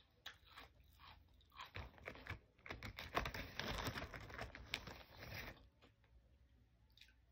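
A person chewing crunchy food with the mouth close to the microphone: a dense run of crunches in the middle, thinning to quieter chewing near the end.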